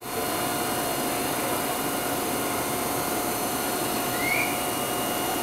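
Steady hiss and hum of a Tobu 100 series Spacia limited express train standing at the platform with its on-board equipment running, with a faint steady whine and a brief rising squeak about four seconds in.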